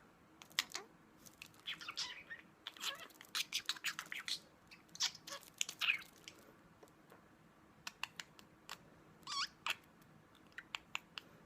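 Budgie pecking and nibbling at a wooden lollipop stick, with quick irregular beak clicks and taps, broken by a few short chirps.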